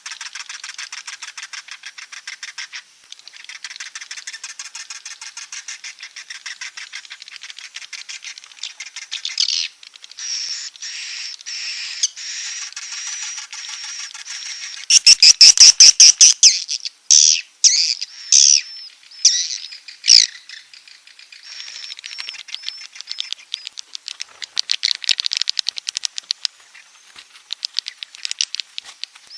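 Swiftlets calling in a fast, rattling twitter of rapid clicks and chirps, loudest for a few seconds around the middle. It is a recording of the roosting ('inap') call, played to draw swiftlets into a nesting house.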